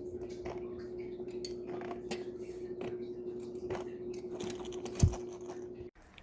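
Small hard RC truck parts being handled on a workbench, clicking and clinking lightly, with a steady hum underneath and one louder knock about five seconds in.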